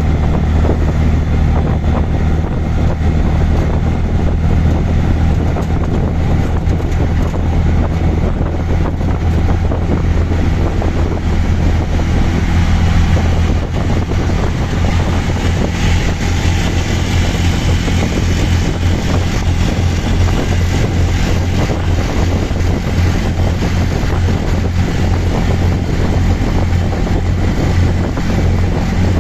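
Auto rickshaw's engine running steadily while under way, with a low steady hum, along with wind and road noise on the microphone.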